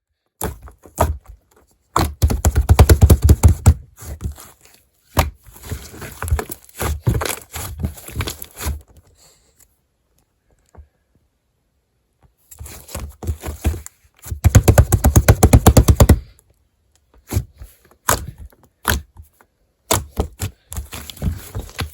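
Sticky slime being squeezed and pressed by hand, giving dense runs of rapid popping clicks and wet squelches in bursts of a few seconds, with a quiet pause near the middle.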